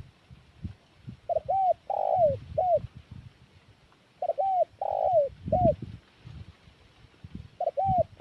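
Spotted dove (tekukur) cooing: three repeated phrases, each two short quick coos, a longer drawn coo and a final short coo, about three seconds apart, with soft low thuds underneath.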